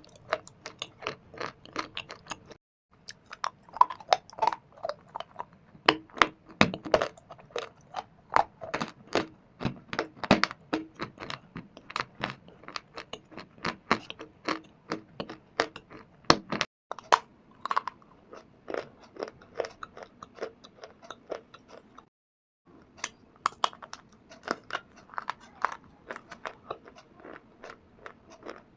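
A person biting and chewing dry shale stone and Punjab clay (mitti), giving rapid, dense, crisp crunches. The crunching stops dead twice for a moment, once near the start and once about three-quarters through.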